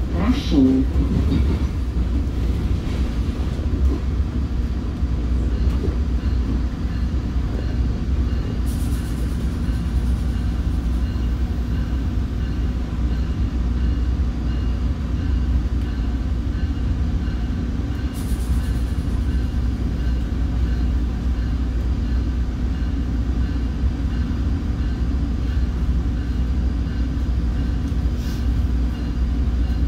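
Commuter train running along the line, heard from inside a passenger car: a steady low rumble of wheels on rail, with a brief high hiss twice.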